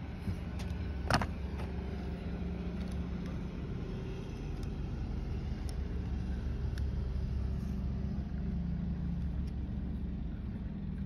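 A vehicle engine idling steadily with a low hum. About a second in there is one sharp click, with a few lighter clicks later, from the plastic wiper-blade adapter being handled and pried with a small tool.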